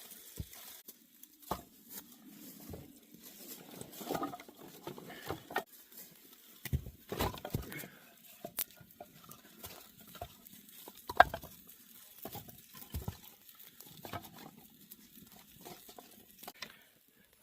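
Irregular rustling and crinkling with scattered light knocks, and one sharper knock about eleven seconds in.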